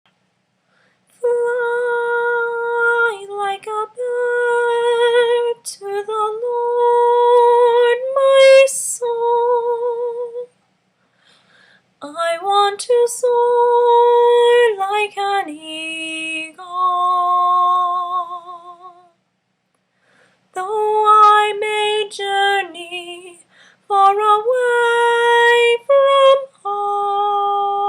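A woman singing unaccompanied with vibrato, in three long phrases with short breaths between them.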